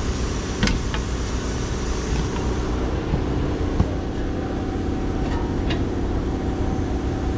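Steady mechanical hum of a machine running in the shop, with a few light metallic clicks and knocks as suspension parts are handled and fitted.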